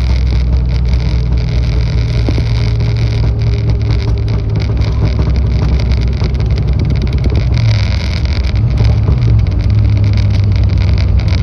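Ford Mustang SN95's 302 (5.0-litre) V8 running loud as the car is driven, its note holding a fairly steady pitch with a brief wavering about eight to nine seconds in.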